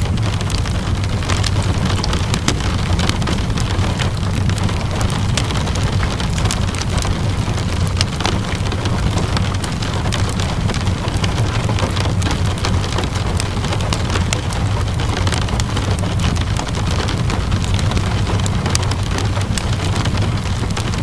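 Steady rainfall with a constant low rumble, mixed with frequent small sharp crackles and pops of a wood fire burning in a fireplace.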